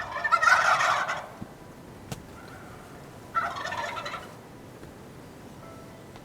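Wild turkey gobbling twice: a long rattling gobble at the start and a shorter one about three and a half seconds in.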